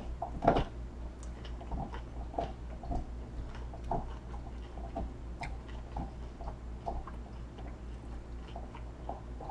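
A person chewing a crispy fried vegetable egg roll close to the microphone: irregular soft crunches, the loudest about half a second in. A low steady hum runs underneath.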